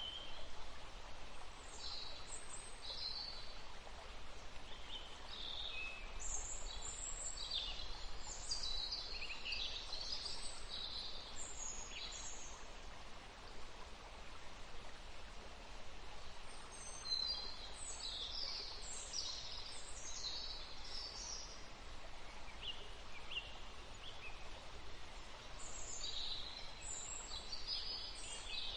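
Small birds chirping: many short, high-pitched calls in bursts, with brief lulls about halfway and again near the three-quarter mark, over a steady background hiss.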